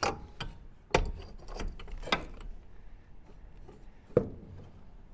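Irregular sharp knocks and clatters with some scraping between them, the loudest about a second in and again just past four seconds: objects being handled or bumped.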